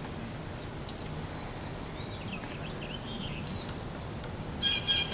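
Outdoor background with birds chirping: a few short warbling calls about two to three seconds in and a brief high call near the end.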